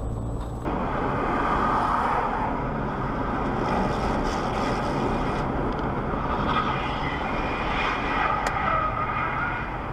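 Steady vehicle driving noise begins after an abrupt cut about a second in. A faint click comes near the end.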